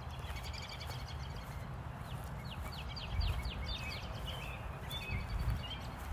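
Small birds singing: a few high chirps, then a quick series of short falling notes around the middle, over a steady low rumble of wind.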